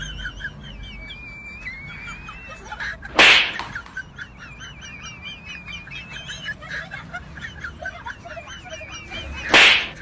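Bird-like chirping and twittering, fast and repeated. Two loud, short bursts of noise cut through it, about three seconds in and again near the end.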